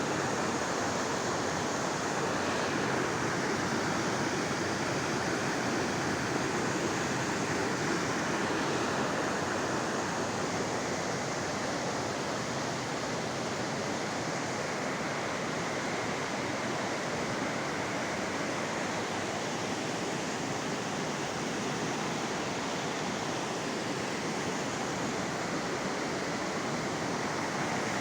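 River water running through a canyon: a steady, unbroken rush of moving water.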